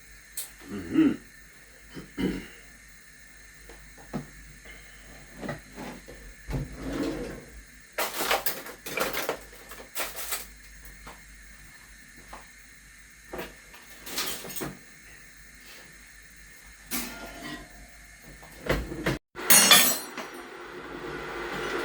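Kitchen handling sounds: scattered knocks, clatters and rustles of pots, lids and utensils being moved, then a steady hiss that builds near the end.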